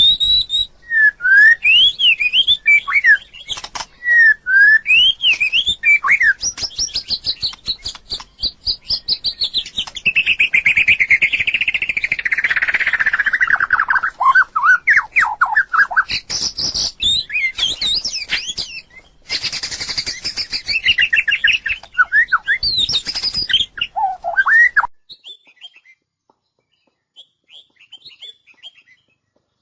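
White-rumped shama singing: a loud, varied run of whistled phrases with rising and falling notes and a fast rippling trill in the middle. The song stops abruptly near the end, leaving only faint chirps.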